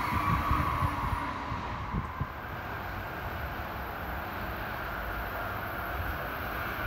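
An Amtrak electric passenger train approaching from a distance on the main line: a steady running hiss and rumble with a faint high whine. Low gusts of wind buffet the microphone. The sound shifts abruptly about a second and a half in.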